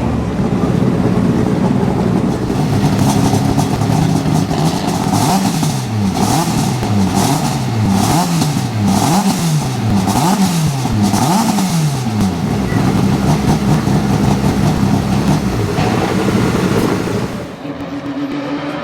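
Rally car engine revved hard up and down about six times in quick succession, between steadier stretches of held revs.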